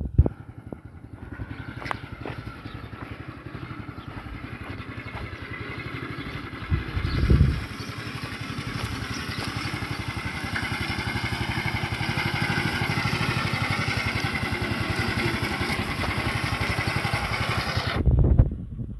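Homemade mini tractor's small engine running with a rapid, even firing beat, growing louder partway through. There are short heavy surges about seven seconds in and again just before it cuts off near the end.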